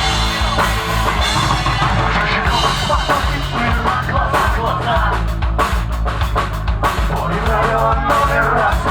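A live rock band playing an instrumental passage, the drum kit's kick and cymbals driving a steady beat under bass and guitars.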